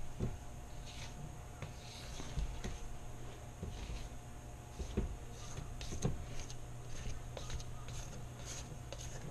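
Kitchen handling sounds while making cookie dough: scattered light knocks and rubbing of utensils against a bowl, with a few sharper knocks about a second in and again around five and six seconds in.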